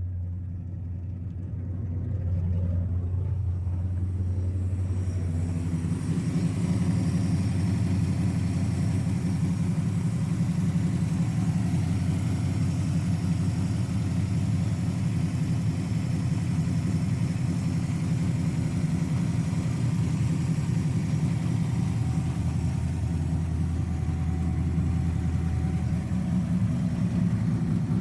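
Ford 5.0 (302) V8 engine of a Nissan S13 running steadily. A low steady hum gives way about five seconds in to a fuller, rougher engine sound that then holds steady.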